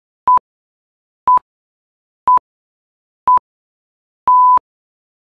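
Electronic countdown timer beeps: four short beeps at the same pitch about a second apart, then a longer final beep marking the end of the countdown.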